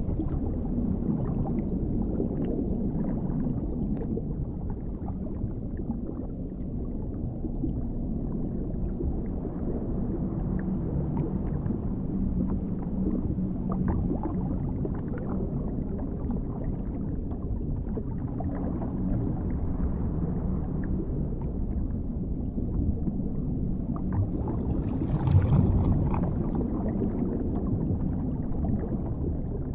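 Dark underwater ambience: a deep, steady rumble with faint scattered ticks, swelling briefly louder about 25 seconds in.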